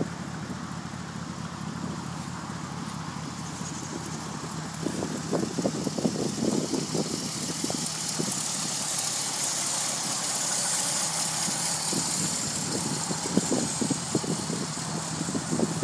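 1966 Mercury Park Lane's V8 engine idling steadily.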